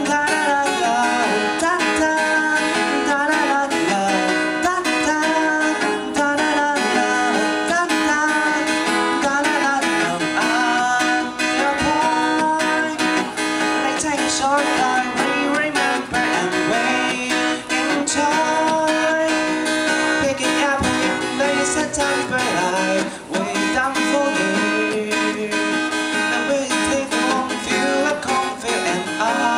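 Acoustic guitar played solo, strummed chords under a picked melody line that runs on without a break.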